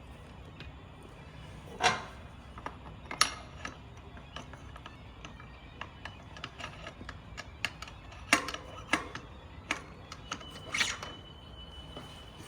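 Metal parts and tools being handled while a motorcycle wheel is fitted: scattered clinks and knocks, several of them sharper and louder. A thin high tone lasts about two seconds near the end.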